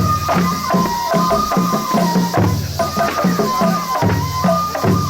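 Japanese festival music accompanying a lion dance: a high melody moving in held steps over regular drum beats and sharp percussion strikes.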